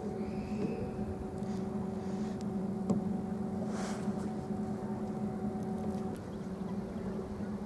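Electric boat motor humming steadily at an even pitch over water and air noise, with a short hiss about four seconds in.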